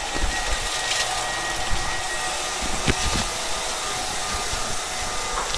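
Tobu 30000 series electric train standing still, its air conditioning and auxiliary equipment making a steady whirring hum with a faint high whine. A light knock about three seconds in.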